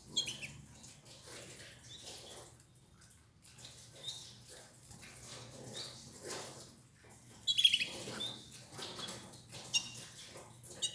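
Domestic canaries giving short chirps every second or two, the loudest cluster about three-quarters of the way through, over soft rustling and pecking as they feed on escarole.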